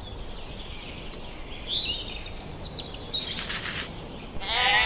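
Faint outdoor ambience with a few short bird chirps about two seconds in and brief rustling a little later.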